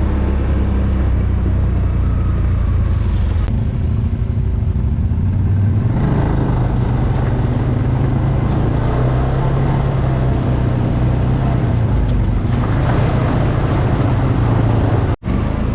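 ATV engine running steadily under way, with a brief cut-out near the end.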